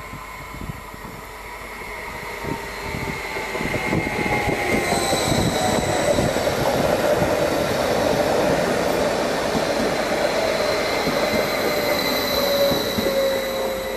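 Electric multiple-unit passenger train passing along the platform without stopping. The rumble and wheel noise build as it approaches, stay loud for several seconds as it goes by, and ease off near the end, with a thin whine that slowly falls in pitch.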